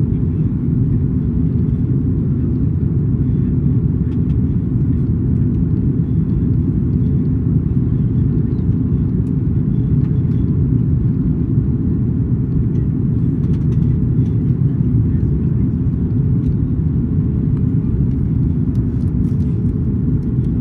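Steady low rumble inside an Airbus A330-200's passenger cabin, the engines and airflow heard through the fuselage, with a few faint ticks in the second half.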